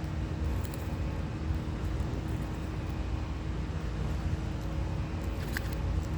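Steady low outdoor background rumble, with a few faint clicks about a second in and again near the end.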